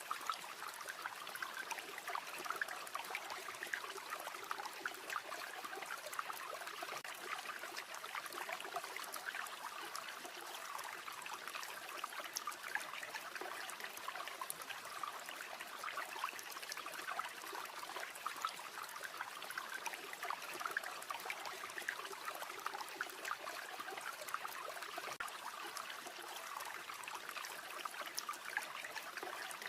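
River water flowing steadily: a continuous babbling trickle with no breaks.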